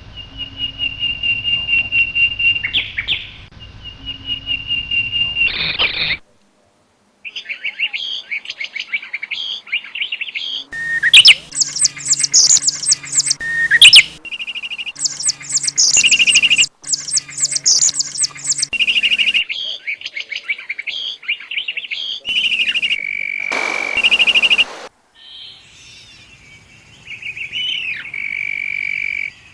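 Birds singing and calling in a run of separate stretches that start and stop abruptly: a steady high trill for the first six seconds, a second of silence, then quick repeated chirps and dense twittering song. A short burst of hiss comes a few seconds before the end.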